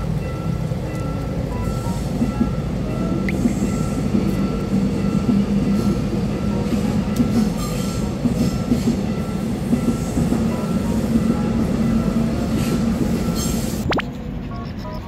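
Electric commuter train passing on the tracks: a steady rumble and rattle of wheels and cars that stops abruptly about fourteen seconds in.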